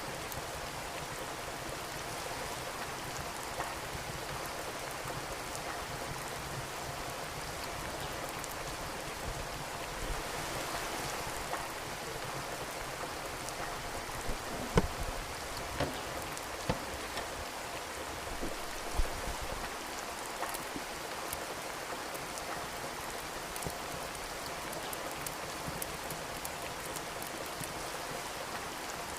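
Steady rain falling, with a wood fire crackling over it; a handful of sharp pops from the fire come in the middle stretch, the loudest about halfway through.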